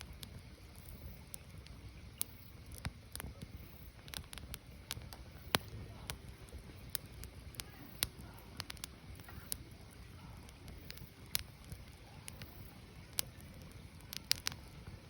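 Burning firewood crackling: irregular sharp pops and snaps, some louder than others, over a low steady rumble of the fire.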